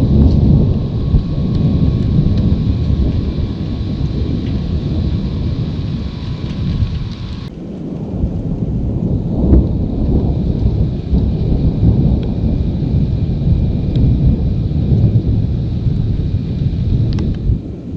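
Thunder rumbling almost without a break, with steady rain. The background changes abruptly about halfway through.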